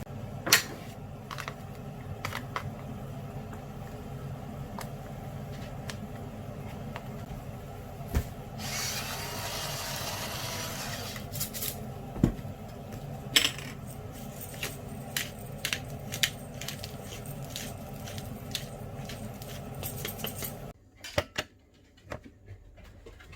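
Kitchen work sounds: metal cookware and utensils clinking and knocking at irregular intervals over a steady machine hum, with a few seconds of hiss near the middle. The hum cuts off suddenly near the end, leaving only the clinks.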